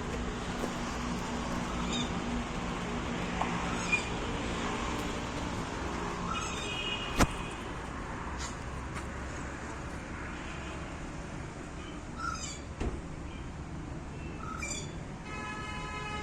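A bird calling repeatedly, a short call every two seconds or so, with a longer drawn-out call near the end. A low steady hum runs under the first six seconds, and there is a single sharp click about seven seconds in.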